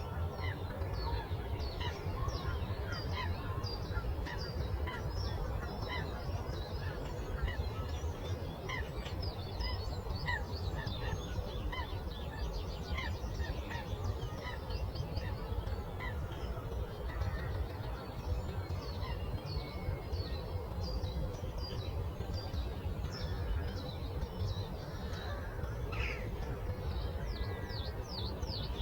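Many small birds chirping and singing in a dawn chorus, short quick calls overlapping throughout, over a steady low rushing background.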